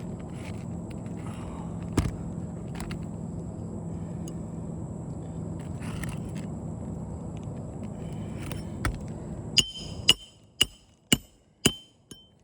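About five sharp hammer strikes on metal, roughly half a second apart, each with a brief ringing tone, near the end: nails being driven to fasten a replacement roof shingle. Before them a steady low hum, with a single knock about two seconds in; the hum stops as the strikes begin.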